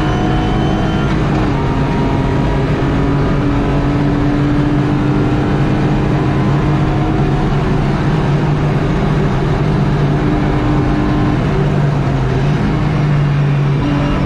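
BMW E36 track car's engine pulling hard at high revs, heard from inside the caged cabin. Its pitch creeps slowly upward, then changes near the end.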